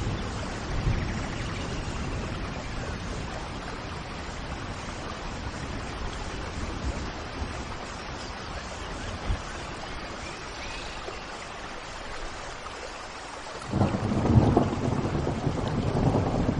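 Steady rain falling with thunder rumbling low, and a louder roll of thunder coming in near the end.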